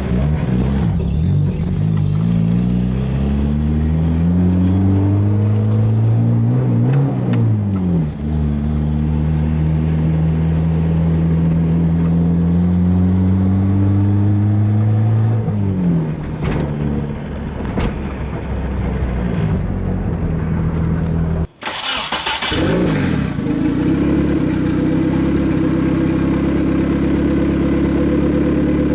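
Turbocharged Nissan SR20DE engine pulling under acceleration. The revs climb and fall back at a gear change about 8 s in, climb again, and drop at another shift around 16 s. After a brief break with a short burst of hiss about three-quarters of the way through, the engine settles to a steady cruise.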